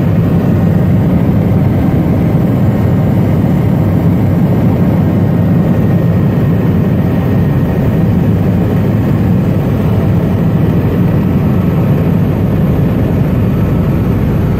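Helicopter engine and rotor noise heard from inside the cabin: a loud, steady drone, heaviest in the low range.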